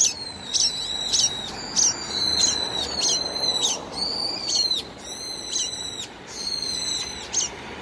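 Parent bird giving sharp, high, downward-slurred alarm calls, about two a second, over its handled fledgling.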